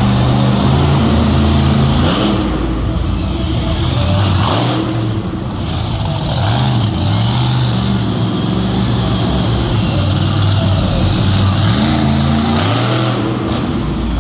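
Monster truck engine revving hard, its pitch rising and falling again and again with the throttle, with brief dips a few seconds in.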